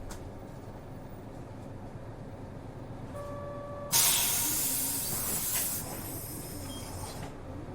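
Inside a route bus, the engine and road rumble run steadily, and a short steady beep sounds about three seconds in. At about four seconds a sudden loud hiss of compressed air being vented from the bus's air system starts, then fades away over the next three seconds.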